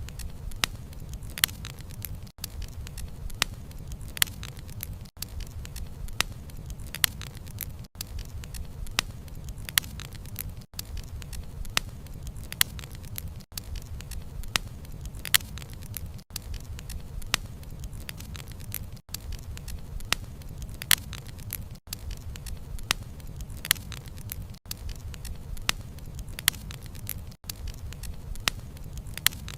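Wood fire burning with a steady low rumble and irregular sharp crackles and pops from the burning logs. The sound briefly drops out about every three seconds.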